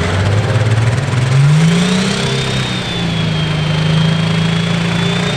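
Light pro stock diesel pulling tractor engine revving up about a second and a half in and then holding at a steady higher speed, with a high turbocharger whistle rising along with it and holding.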